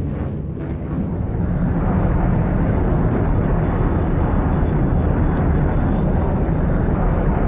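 F-16 fighter's jet engine running, a loud steady rushing rumble that swells about a second and a half in and then holds.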